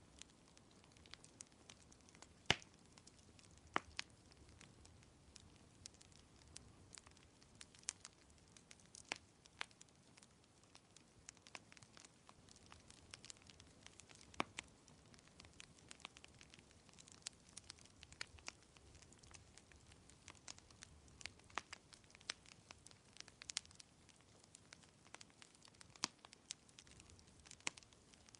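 Wood fire crackling: scattered sharp pops and snaps, irregular and a few each second at most, over a faint steady hiss, the loudest pop about two and a half seconds in.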